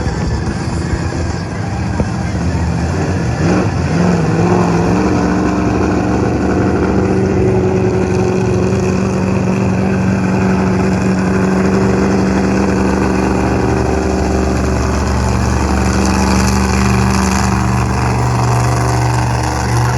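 Monster truck engine running hard, rising in pitch a few seconds in and then held at high revs.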